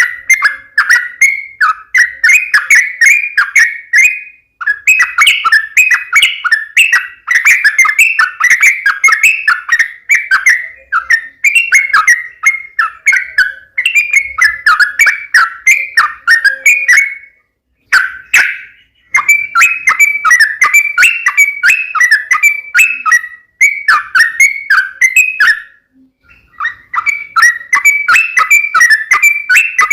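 Yellow-vented bulbul (trucuk) singing its loud, bubbly chattering song in quick runs of notes. The song comes in bouts broken by short pauses, three times. This is the excited fighting song used to provoke other birds to answer.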